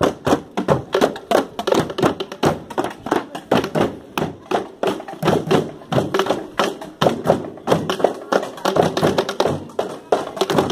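Marching band drum section playing a fast, steady beat of snare and bass drum hits.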